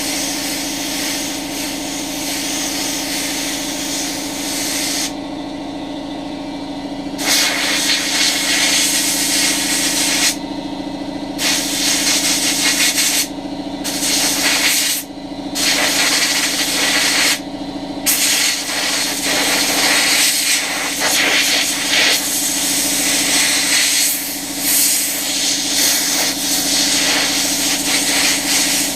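Compressed-air blow gun blasting air through a clogged vacuum cleaner filter to drive the dust out. It hisses in repeated bursts of one to several seconds with short breaks, then runs almost without a break through the second half. A steady low hum sounds underneath throughout.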